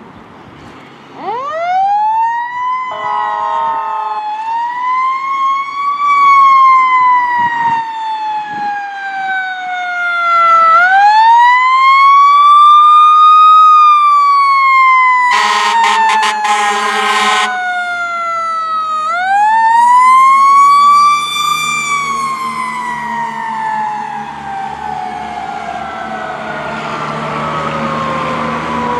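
Fire engine siren wound up three times, each time rising quickly in pitch and then sliding slowly down, with a long fading slide near the end. Short horn blasts sound about three seconds in, and a longer, louder blast comes about halfway through.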